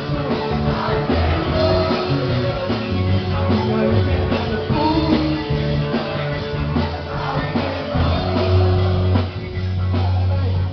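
Live rock-style worship band playing, with electric guitar, bass and drums, and singing voices over it.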